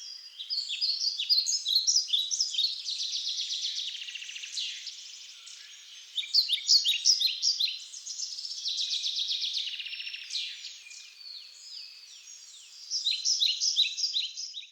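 Songbirds singing, several songs of quick chirps and trills overlapping, with brief lulls about a third of the way in and again near the end.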